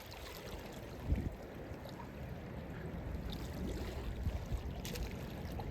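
Low wind rumble on the microphone with water sloshing against the shore, and a dull knock about a second in.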